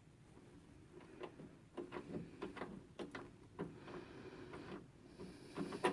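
Faint, irregular clicks and small knocks of a screw being started by hand into the water inlet valve's mounting bracket with a magnetic socket on a drive guide, with a sharper click near the end.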